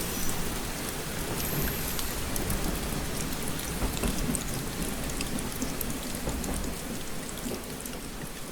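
Steady rain, with individual drops ticking against a window over a low rumble.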